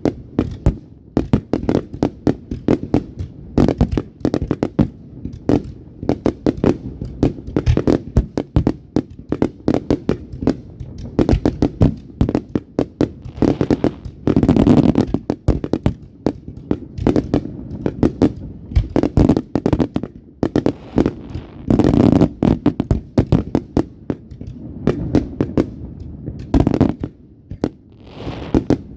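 Fireworks going off in rapid succession: a continuous run of sharp bangs and crackles, with louder, denser volleys about halfway through and again a few seconds before the end.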